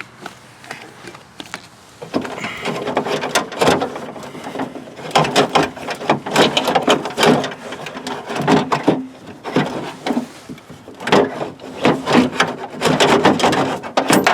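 Irregular clicking, knocking and rattling of metal rods and plastic parts inside a 2008 Chevy Equinox front door as the door latch and lock-actuator assembly is jiggled by hand to work it loose. The clatter starts about two seconds in and keeps going.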